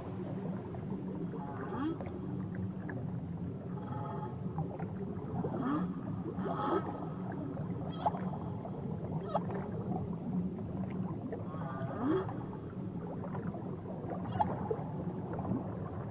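Whale calls underwater: a string of short rising and falling cries, some with sharp clicks, over a steady low hum of the water.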